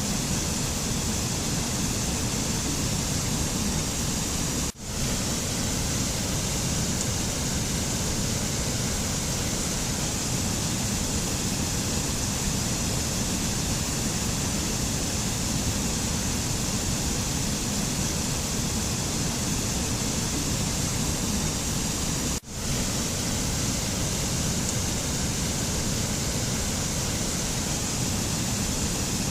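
Steady rushing noise with no pitch or rhythm, as in a mountain nature-sound ambience. It cuts out for an instant twice: about five seconds in and about twenty-two seconds in.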